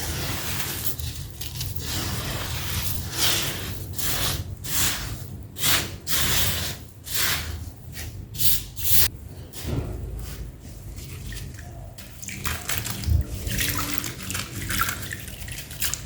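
Wet sand-cement crumbling: gritty chunks breaking apart in a string of short, crackly crunches with a watery edge, coming thickest in the middle.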